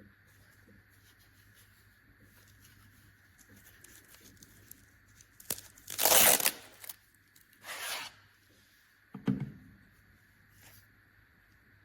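Handling noises: a loud, rough rasp about six seconds in, a shorter one near eight seconds, and a knock about nine seconds in.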